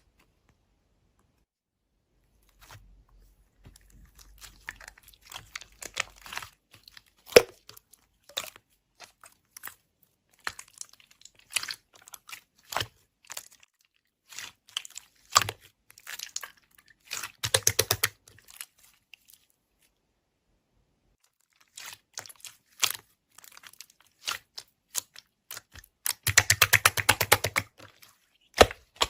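Close handling of something crinkly, like paper or plastic: scattered clicks, tapping and crackles, with two bursts of dense, rapid crackling or tearing.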